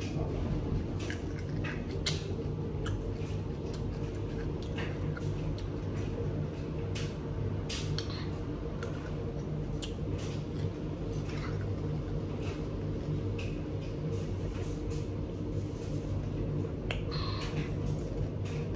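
Crunchy chewing and mouth clicks from eating a pickle, coming at irregular intervals over the steady low hum of a washing machine running.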